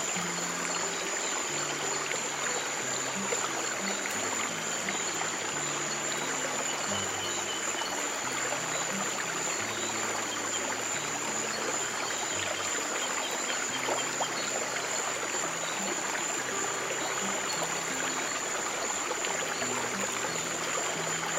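A stream of running water trickling steadily, over soft, slowly changing low music notes and a steady high tone.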